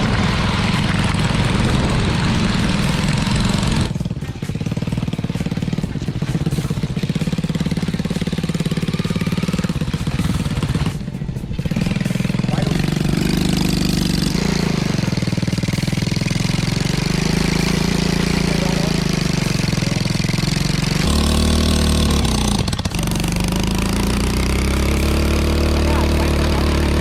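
Motorcycle engine running and revving, its pitch rising and falling several times, with a few abrupt breaks in the sound.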